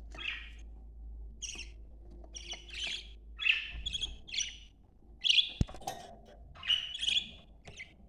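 Budgerigars chirping and chattering in a quick run of short calls, with one sharp click a little after halfway.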